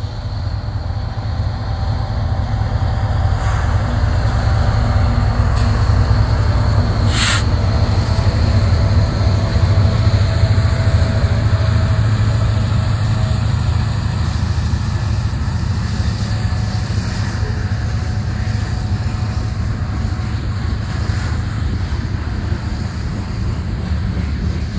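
BNSF freight train passing close by: the diesel locomotives go past first, then covered hopper cars roll by with a steady, heavy rumble of wheels on rail. There are a couple of sharp clanks, a few seconds in and again about seven seconds in.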